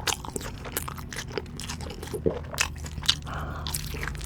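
Close-miked eating sounds: a person biting into and chewing an In-N-Out onion burger, with irregular crisp crunches and wet chewing.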